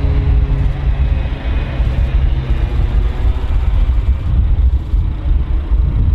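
A heavy engine running with a loud low rumble and a faint steady hum that fades over the first couple of seconds.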